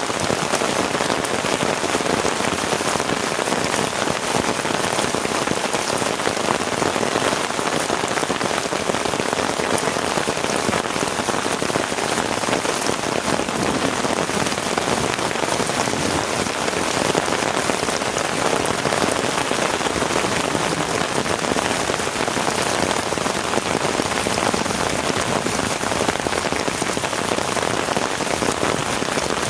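Heavy rain falling steadily, a dense, even patter of drops that holds without a break.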